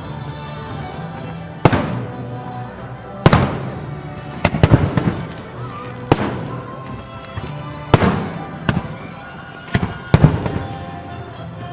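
Aerial firework shells bursting, one sharp bang with a ringing echo every second or two, some in quick pairs, over music playing with the show.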